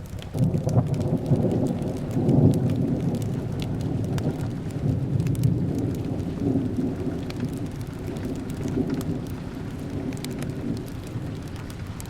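A long roll of thunder breaks in about half a second in and rumbles on deep and low, easing off slowly, over steady rain with scattered drips and crackles.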